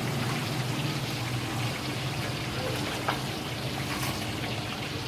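Kofta curry cooking in a pan of masala with about a glass of water just added, a steady sizzle and bubble.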